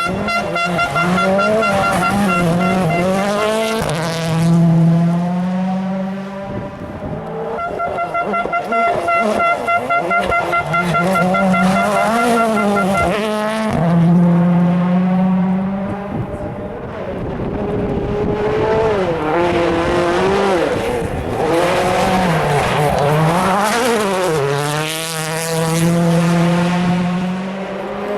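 Rally car engine revving hard and falling away again and again through gear changes and braking, with tyre noise. A steady high whine sits over the engine for a few seconds near the start and again in the middle.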